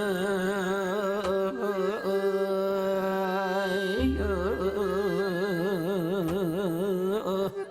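A man's voice singing sijo, the Korean classical lyric song, drawing one syllable out into long held notes. The pitch sways in a slow, wide vibrato several times a second, bends to a new note about halfway, and breaks off at the end.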